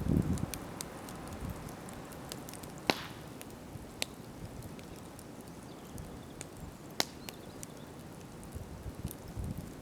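Wood campfire crackling, with many small ticks and three sharp pops about three, four and seven seconds in.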